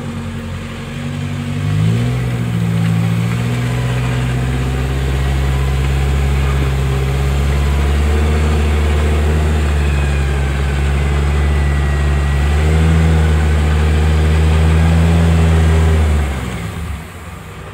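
Off-road 4x4's engine revving up about two seconds in and held at steady raised revs while the vehicle is winched up a muddy trench, then dropping back near the end.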